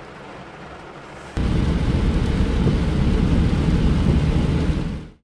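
Quiet car-cabin hum, then, about a second and a half in, loud, steady heavy rain on a moving car's windshield and body, which fades out near the end.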